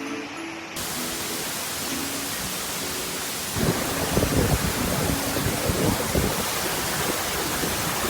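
Waterfall rushing: a steady roar of falling water. Soft music fades out in the first few seconds. About three and a half seconds in, the sound grows louder, with an uneven low rumble on top.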